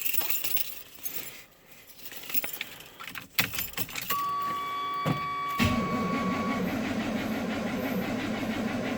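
Keys jangling in the ignition of a 1988 Chevy 1500, then a steady electronic warning tone. About five and a half seconds in, the truck's 350 V8 catches on a cold start in sub-zero weather and runs at a steady idle.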